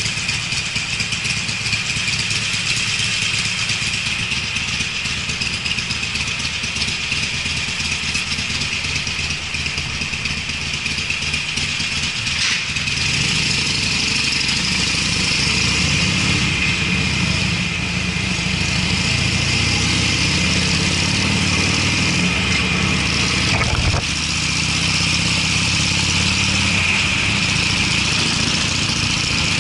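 Harley-Davidson Sportster's air-cooled V-twin running through Screamin' Eagle mufflers as the motorcycle rides, its low exhaust note growing louder about halfway through, over a steady high hiss.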